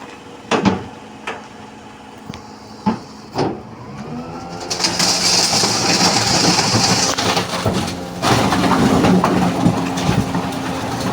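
Truck engine running with a steady hum, starting about four seconds in after a few separate knocks, with a loud hiss lasting about two seconds early in the running.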